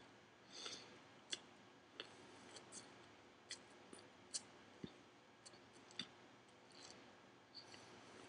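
Faint mouth clicks and small crunches at an irregular pace of one or two a second, from someone chewing a big mouthful of spinach leaves.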